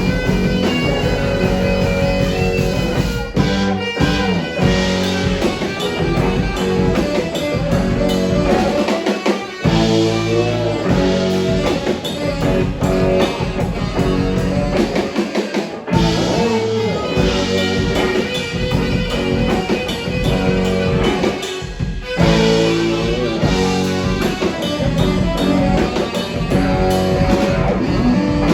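Live rock band playing an instrumental passage without vocals: guitar over a drum kit, steady and loud.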